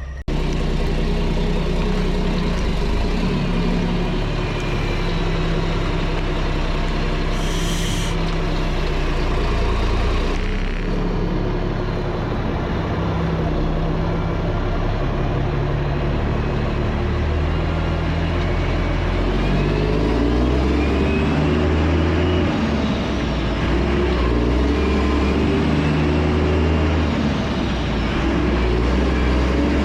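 Mack truck's diesel engine pulling away with a loaded lowboy trailer, its pitch stepping up and dropping as the driver works through the gears. A short hiss comes about eight seconds in.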